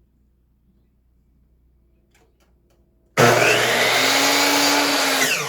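An electric power saw starts abruptly about three seconds in and runs steadily at full speed for about two seconds, then is switched off and begins to wind down, its pitch falling near the end.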